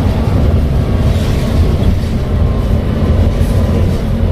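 Volvo B7TL double-decker bus with a Voith automatic gearbox running: a steady low rumble with no distinct events.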